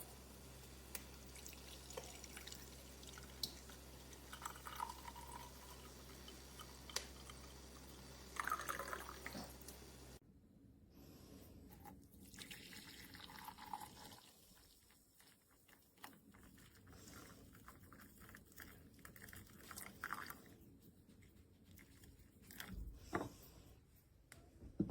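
Faint liquid pouring and dripping, with scattered small clicks and taps. A steady low hum behind it stops abruptly about ten seconds in.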